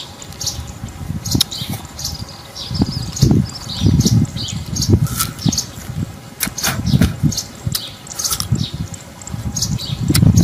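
Small birds chirping in short high notes, over irregular low rumbling surges and a few soft clicks.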